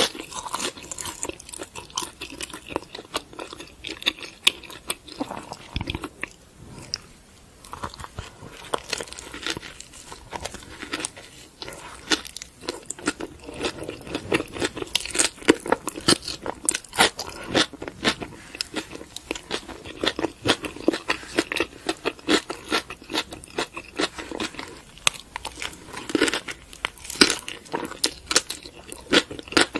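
Close-up eating of spicy Korean chicken: crisp, crunchy bites and chewing in a steady run of sharp crackles. The bites come thinner for a few seconds early on, then thicker and louder through the second half.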